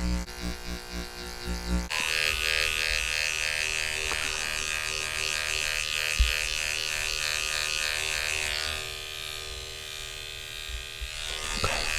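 Electric hair clippers with a number 3 guard running with a steady buzz, starting about two seconds in, easing off around nine seconds and coming back near the end.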